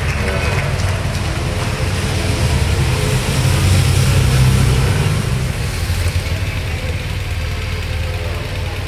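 Motor vehicle engines running close by as race support cars drive past, a low rumble that swells about four seconds in.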